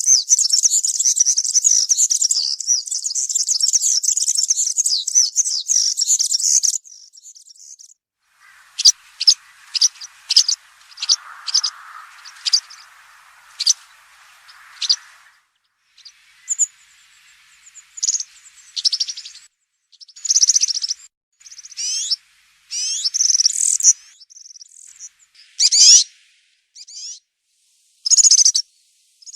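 European serin singing: a rapid, high, jingling song for the first seven seconds or so, then a string of short sharp notes and, later, separate brief high phrases with gaps between them.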